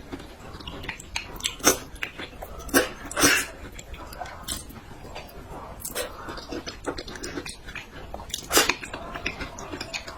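Close-miked eating: wet chewing, smacking and biting sounds at an irregular pace, with a few louder smacks.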